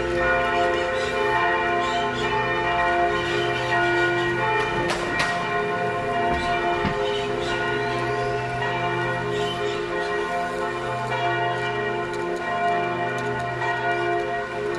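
Church bells ringing continuously, many bell tones sounding and overlapping at once, with a short sharp knock about five seconds in.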